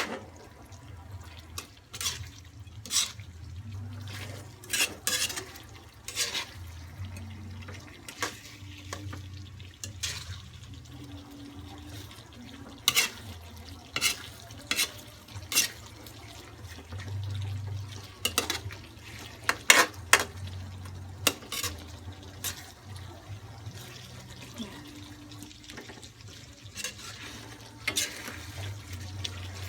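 A cooking spoon stirring a thick stew of meat, potatoes and carrots in a pot, with irregular clinks and knocks against the pot's side as it goes. A low steady hum runs underneath.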